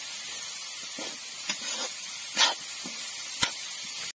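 Shredded cabbage and onion momo filling sizzling in a metal kadai with a steady hiss, while a metal spatula scrapes and tosses it in a few quick strokes, the loudest two about two and a half and three and a half seconds in.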